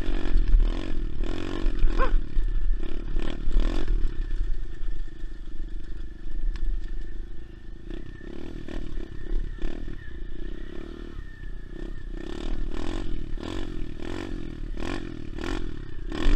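SSR 125 pit bike's single-cylinder four-stroke engine running under riding, easing off around the middle and picking up again towards the end.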